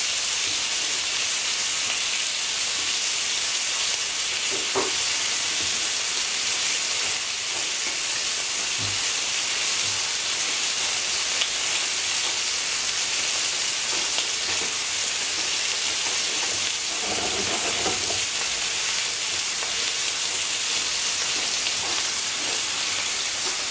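Steady sizzle of food frying: hamburger patties cooking on a ridged grill pan over a gas flame, with fries frying in oil in the pan beside it.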